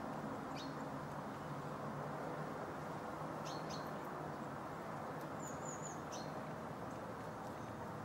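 A few short, high calls from small songbirds: single thin notes about half a second in, a quick pair near the middle and another later, plus one brief high trilled phrase. Under them runs a steady low background rumble.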